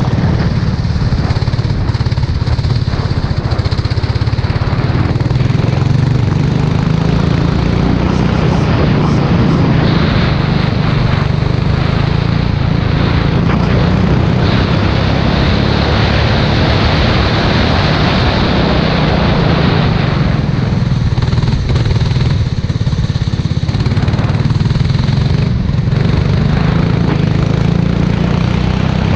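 Engine of an F4 racing vehicle heard onboard, running continuously under load during laps of a wet track, with a hiss of spray over the engine note.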